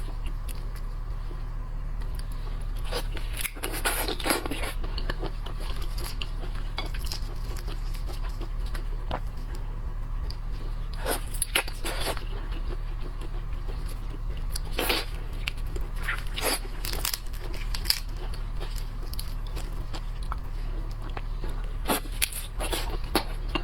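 Scattered crunching and cracking of shrimp and shellfish shells being broken open and chewed, in irregular clusters of sharp clicks, over a steady low hum.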